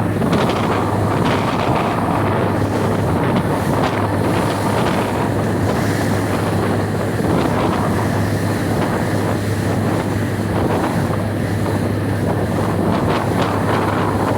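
Wind buffeting the microphone over a motorboat's engine running at a steady speed, with water rushing along the hull.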